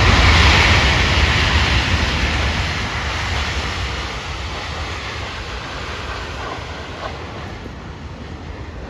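Landing aircraft's engines running in reverse thrust on the rollout: a loud rushing roar with a deep rumble that dies away steadily as the aircraft slows.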